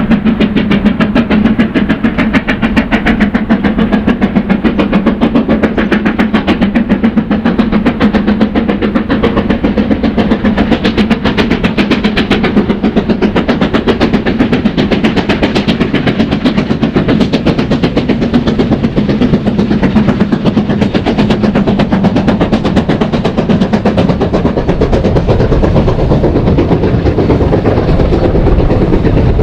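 Steam-hauled train running, heard as a fast, even run of beats over a steady low tone.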